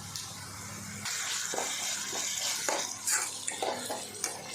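Onions and ginger-garlic paste sizzling in hot oil in a kadai, sautéed until the paste loses its raw smell. A spatula stirs them, scraping and knocking against the pan several times, and the sizzle grows louder about a second in.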